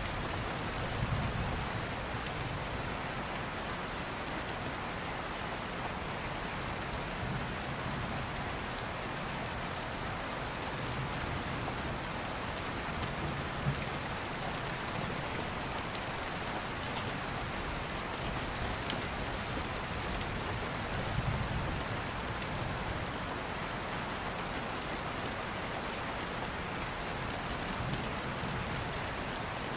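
Steady rain falling, with low rumbles of distant thunder swelling now and then and a few sharp crackles from an open wood fire.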